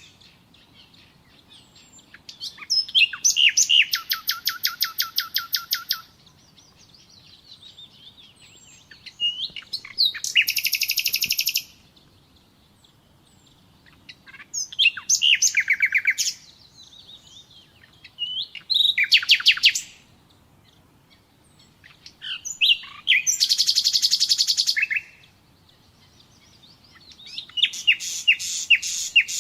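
Nightingale singing: about six separate phrases, each opening with a few short notes and running into a fast series of rapidly repeated notes, with pauses of two to three seconds between phrases.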